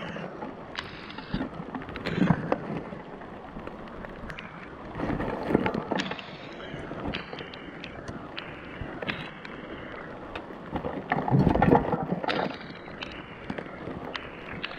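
Rummaging through scrap in a dumpster: scattered knocks and clatter, with louder rough bursts of handling about two, five and eleven seconds in, muffled through a waterlogged GoPro microphone.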